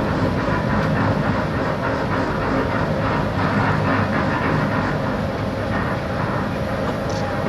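Steady running rumble aboard the large car ferry Ishikari under way, an even drone of engine and sea noise with no breaks.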